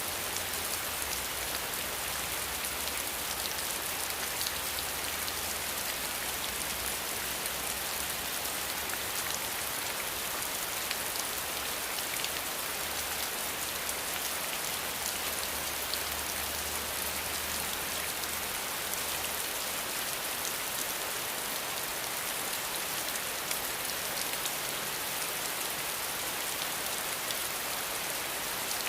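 Steady rain falling, a dense, even patter of drops that holds constant throughout.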